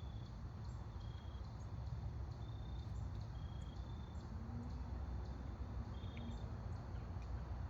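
Outdoor background: a steady low rumble with short high-pitched chirps recurring every half second or so.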